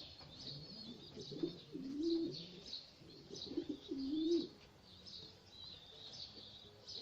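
Domestic pigeons cooing: two low warbling coos about a second and a half and three and a half seconds in, with fainter ones later, over steady high-pitched chirping.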